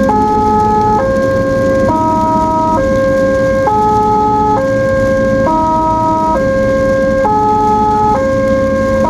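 Ambulance electronic siren sounding a repeating melody: it steps through about four pitches, each held just under a second, with the pattern coming round again every few seconds. Under it runs a steady low vehicle rumble.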